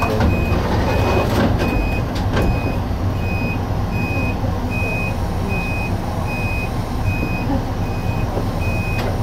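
Electric train running with a steady low rumble. Over it, one high electronic beep repeats evenly, about every three-quarters of a second.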